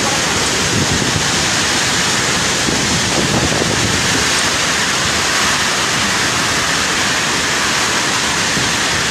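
Storm wind and heavy rain in a tropical cyclone, a loud, steady rushing noise.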